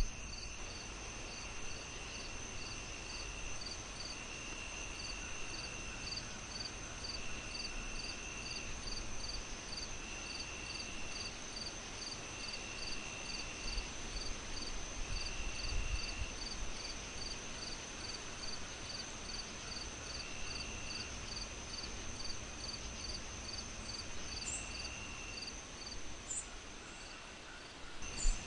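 Crickets and other insects chirping in a layered night chorus: a steady high buzz, a short chirp about twice a second, and a longer trill roughly every two seconds. There is one sharp click near the end.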